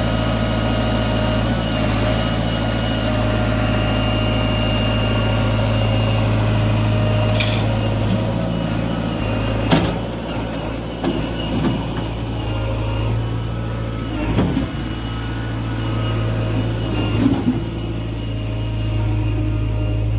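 Heavy diesel engine running steadily, with a few sharp knocks about halfway through and near the end.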